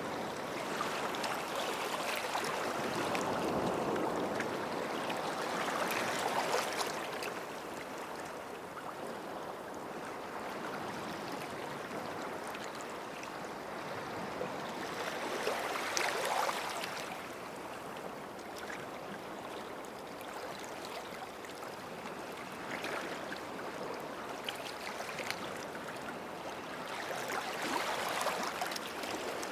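Small waves washing onto the shore and drawing back, a continuous hiss of surf that swells every several seconds as each wave comes in.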